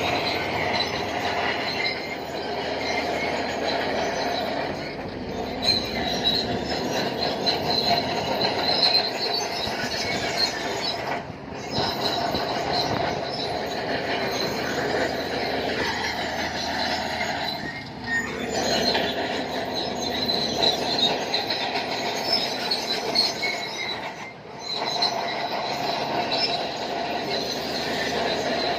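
Shantui DH7 crawler bulldozer working, its steel tracks squealing and clanking over the running engine in a continuous metallic screech. The sound drops off briefly twice, about a third of the way in and near the end.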